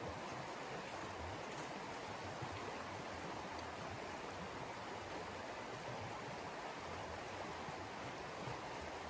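Steady rushing wind of a snowstorm, an even hiss with no breaks.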